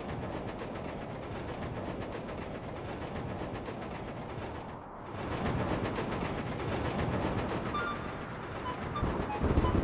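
A train running: a steady, rapid clattering rattle that dips briefly about halfway through, with a few faint high notes coming in near the end.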